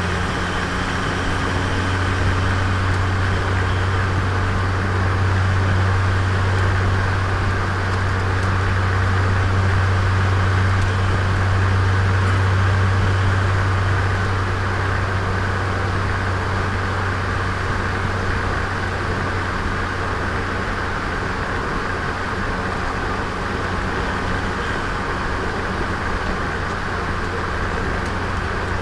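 Turbocharged Nissan Micra engine pulling at a steady cruise with tyre and road noise, heard from onboard the car: a constant low drone that eases slightly about halfway through.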